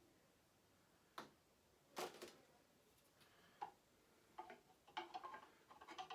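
Hard statue parts being handled and fitted together: two sharp clicks early, then a quickening run of small taps and clicks toward the end.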